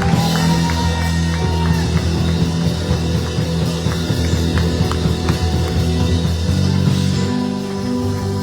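Church band music playing behind the sermon: held low chords, with drums and guitar over them.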